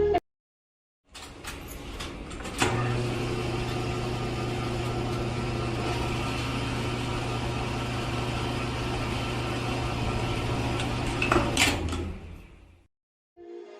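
A small electric motor runs steadily with a low hum. It switches on with a click about two and a half seconds in and clicks off near the end, then winds down.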